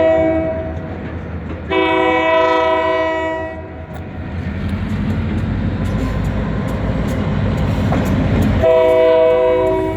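Freight train horn sounding a chord in long blasts: one ending just after the start, a second of about two seconds, and a third starting near the end. Between the blasts the train's low rumble swells as it passes.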